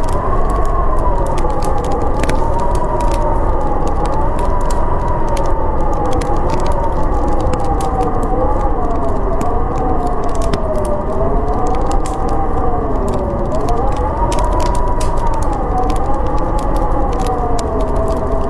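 Howling wind, its whistling tone slowly rising and falling in pitch, over a steady rush, with a wood fire crackling in frequent small pops.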